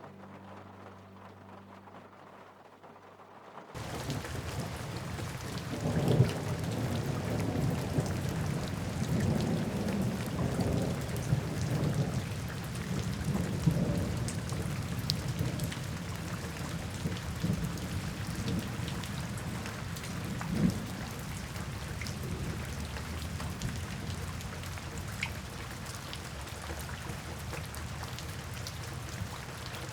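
Steady rain falling, with low rolling thunder swelling in the first half and scattered drips. It comes in suddenly about four seconds in, after soft music fades out.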